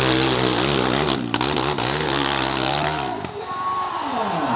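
Dirt bike engine revving hard under load on a hill climb, its pitch rising and falling, then cutting out suddenly about three seconds in.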